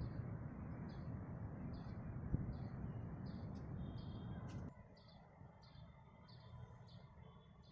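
A bird chirping over and over, one short high note about two or three times a second, over a low rumble of background noise that drops away suddenly a little past halfway.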